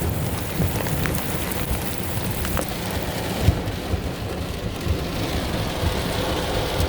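Torrential rain pounding on a car's roof and windows, heard from inside the car, with a low rumble of thunder underneath.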